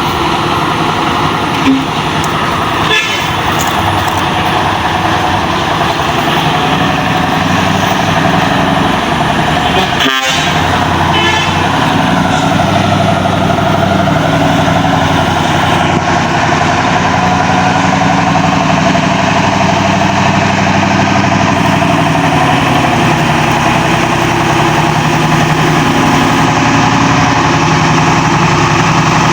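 Heavy truck engine running steadily under load, growing slowly louder, with a momentary break about ten seconds in.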